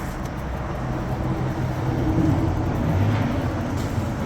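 Low, steady vehicle rumble with a faint engine hum that wavers a little in pitch.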